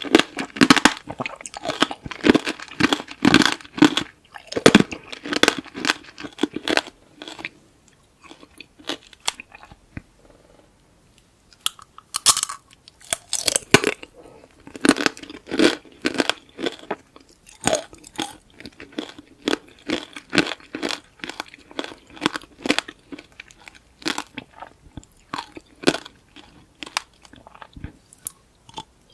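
Close-miked bites and chewing of tanghulu, the hardened sugar-candy shell crunching and cracking between the teeth in quick runs. The chewing eases off for a few seconds near the middle, then a sharp crack and dense crunching start again.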